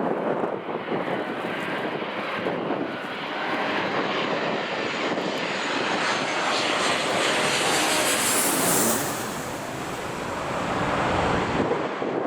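Airliner engines passing close by, with a high whine that swells to its loudest about eight to nine seconds in and then fades. Strong gusty wind buffets the microphone throughout.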